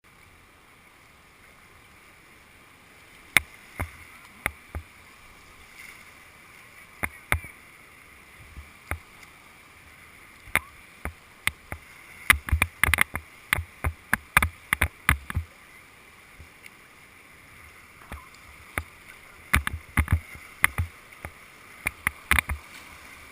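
Steady low rush of water at a river ledge rapid, with many sharp irregular knocks and clacks, thickest about halfway through and again near the end.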